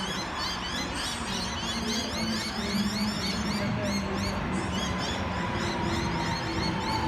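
Electric suburban train standing at a platform with a steady running hum and a faint whine slowly falling in pitch, under many quick high bird chirps.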